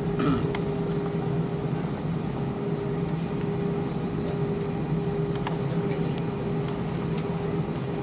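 Passenger aircraft's steady engine hum, with a constant droning tone and no rise in pitch. A few faint clicks sound over it.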